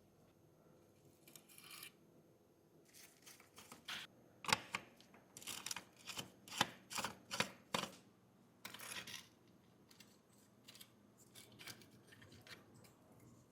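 Hand work on a small die-cast model car: a run of short scraping and clicking strokes, thickest in the middle, then a few lighter ones.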